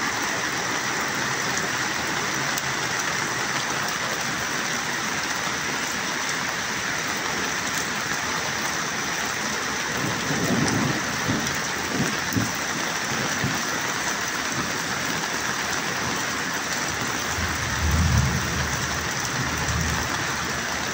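Heavy rain falling steadily, a dense even hiss. Low rumbles come in about halfway through and again near the end.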